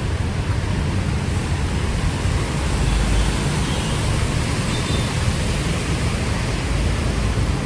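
Steady hiss of heavy rain with a low rumble of street traffic underneath.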